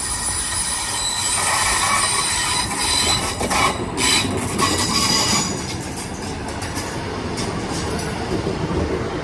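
GWR Class 150 Sprinter diesel multiple unit passing close by on curved track, its wheels squealing in thin high tones. It grows louder about a second and a half in, with a run of sharp clicks over the rail joints in the middle, then eases off as the cars go past.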